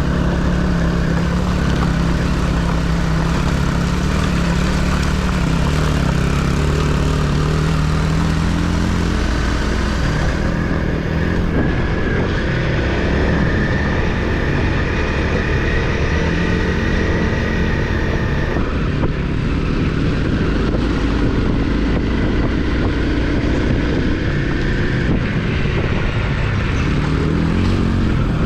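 Off-road motorcycle engine running under changing throttle while riding, its pitch rising and falling, over a steady low rumble.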